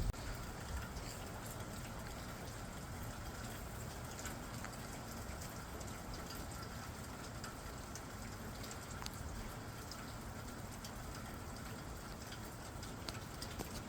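Steady rain falling, with individual drops clicking sharply on a nearby surface.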